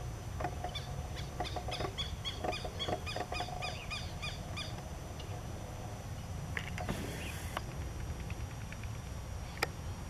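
A bird calling: a quick run of short, repeated pitched notes lasting about four seconds, over a steady low rumble, with a brief hiss near the middle and a single sharp click near the end.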